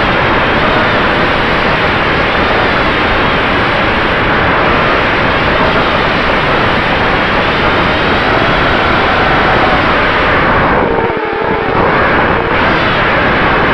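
FPV racing quadcopter's brushless motors (RCX H2205 2350kV) and propellers whining, the pitch rising and falling with the throttle, under heavy wind buffeting on the onboard camera's microphone. About eleven seconds in, the throttle drops briefly and the whine dips before it climbs again.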